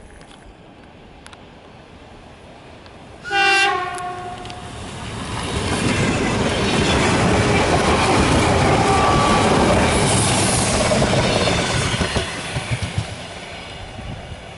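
Electric commuter train (elektrichka) sounds a short horn blast about three seconds in, then passes close by with a loud rush of wheels on the rails that is loudest in the middle and fades toward the end.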